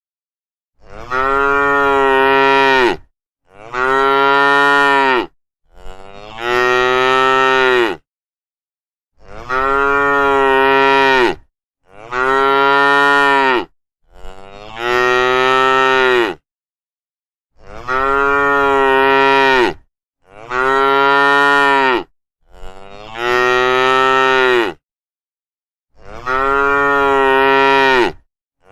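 A cow mooing over and over: about ten long moos of about two seconds each, all of much the same pitch and shape, with complete silence between them.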